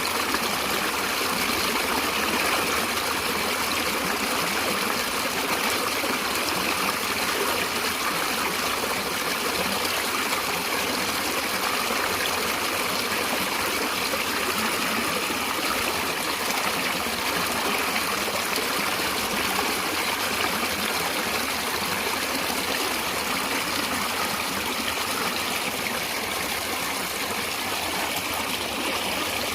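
Stream of water running steadily over rocks, a continuous rushing with trickling detail.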